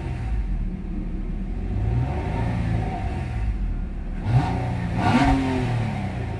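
A 2020 Nissan Maxima's 3.5-litre V6 running and being revved, its pitch rising and falling, with the sharpest rev about four to five seconds in.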